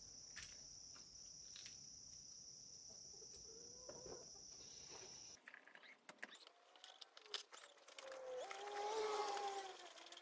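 Faint, steady high-pitched insect trill, crickets, which cuts off suddenly about five seconds in. Near the end comes a short animal call that rises and falls in pitch.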